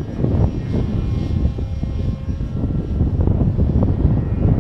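Electric motor and propeller of a foam RC jet buzzing overhead at full throttle. Heavy wind buffeting on the microphone runs under it.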